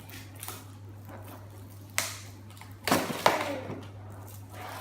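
A few sharp knocks and clacks from objects being handled, the loudest cluster about three seconds in, over a steady low hum.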